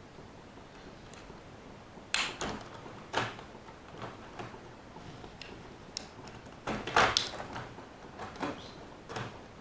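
Handling noises from model railway rolling stock and track pieces: irregular clicks, knocks and short scrapes, loudest about two seconds in and again around seven seconds in.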